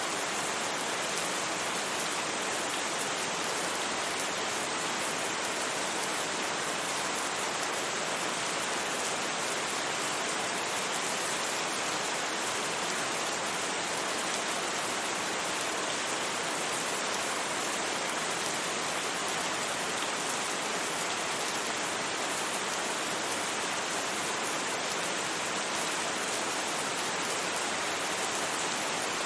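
Steady rain sound mixed with white noise, an even hiss without breaks or single drops standing out.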